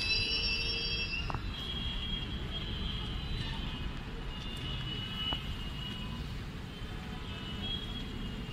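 Passenger train coaches rolling past close by: a steady wheel-on-rail rumble with high-pitched wheel squeal, strongest in the first second or so and then fainter, and a few sharp knocks from the running gear.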